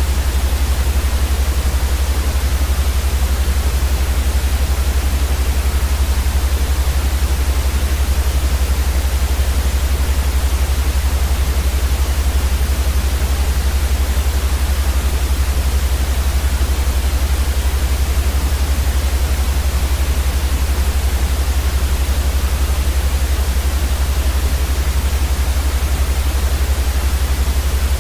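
Steady, unchanging white noise made for baby sleep: an even hiss across the whole range with a strong deep rumble underneath.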